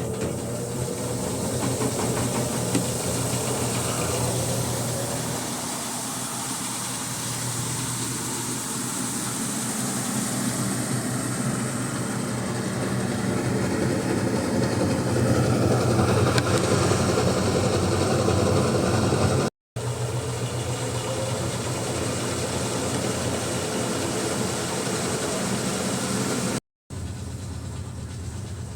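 Brastemp washing machine running with a steady motor hum that grows slowly louder, broken twice by brief cuts in the sound.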